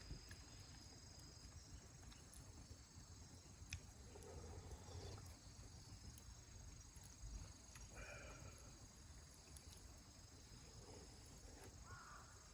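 Near silence: a faint, steady, high-pitched insect drone, with a few soft clicks.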